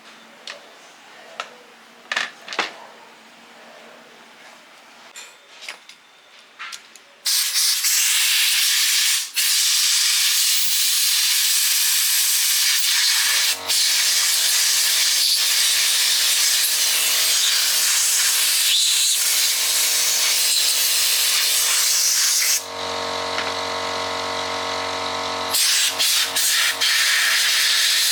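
Small clicks and taps of metal parts being handled, then a loud steady hiss of air or spray. Several seconds later a motor starts and runs with a steady hum under the hiss. Near the end the hiss stops for a few seconds while the motor keeps running, then starts again.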